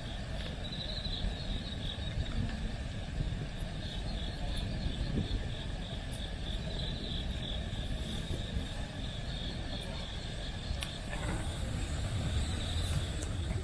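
Campfire burning with a few sharp crackles and pops, while autumn insects trill steadily in the background over a low, steady rumble.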